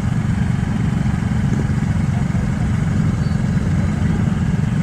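Steady, loud low rumble of riding along a road in traffic: wind buffeting the microphone, mixed with road and vehicle noise.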